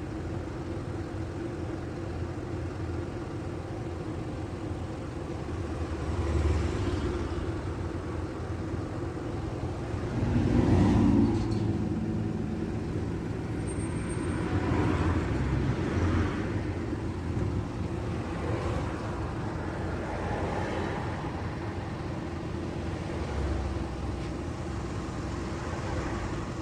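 Steady hum of a car engine idling while queued in traffic, with swells of road noise as vehicles pass several times. The loudest pass comes about ten seconds in.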